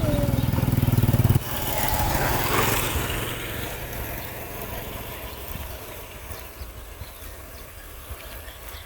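A motor engine running loudly, its steady low hum cutting off sharply about a second and a half in. A rushing noise then swells and fades away, like a passing vehicle.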